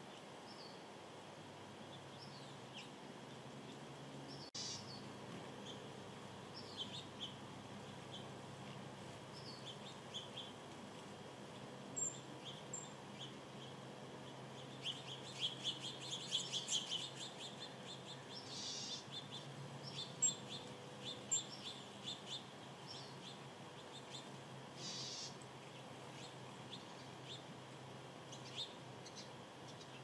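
Small birds giving short, high chirps scattered over a steady background hiss, with a quick run of rapid chirps about halfway through.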